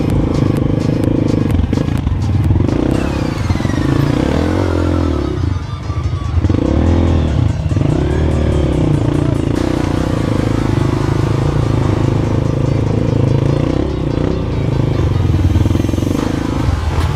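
Off-road motorcycle engine running, revving up and down a few times about four to eight seconds in, with background music over it.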